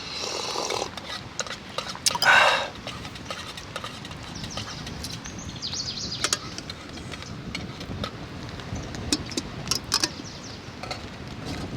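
Birds calling outdoors, with one loud harsh call about two seconds in and high chirps throughout, over scattered short clicks and taps.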